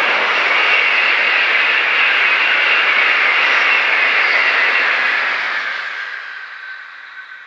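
A Shinkansen 300 series high-speed train passing at speed, a loud rushing of wheels on rail and air. About five seconds in, the noise fades away as the train recedes, leaving a faint steady high tone.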